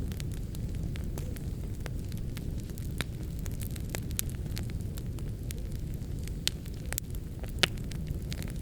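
Fireplace fire burning with a steady low rumble and scattered crackles, one louder pop near the end.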